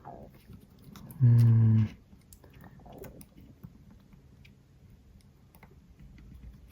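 A man's short hummed 'hmm', held for under a second about a second in, among faint scattered clicks and taps of small phone parts being handled.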